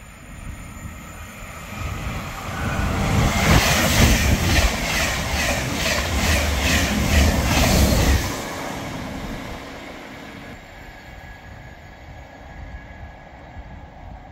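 A Eurostar high-speed train passing at speed without stopping. Its rush builds from about two seconds in, with a quick, even beat of wheels over several seconds, then drops off sharply as the last carriage goes by and fades away.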